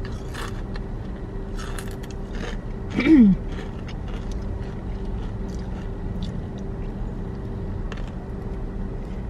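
Close-up crunching and chewing of Doritos chips and a sub sandwich, short crackles in the first couple of seconds, over a steady low hum inside a car. About three seconds in comes a brief louder sound sliding down in pitch.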